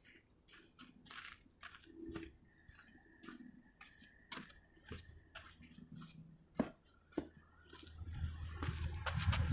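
Footsteps crunching on a trail, faint and irregular, with a low rumble building near the end.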